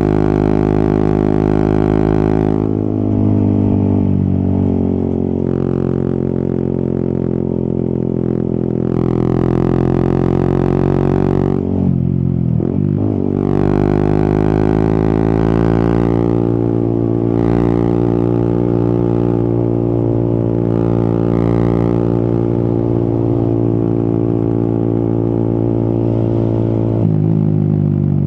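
Yamaha XSR 155's single-cylinder engine running under way, heard from the rider's position. Its pitch mostly holds steady, drops around three seconds in, dips sharply and climbs back about twelve seconds in, and rises then falls near the end, as the throttle and gears change.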